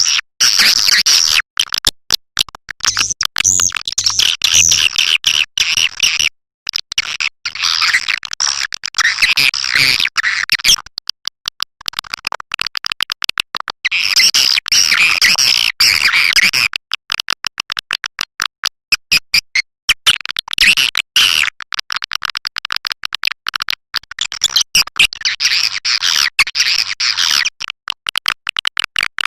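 Swiftlet call track, a lure recording played to draw edible-nest swiftlets into a bird house: dense, rapid twittering chirps and clicks in bursts of a few seconds with short breaks between them.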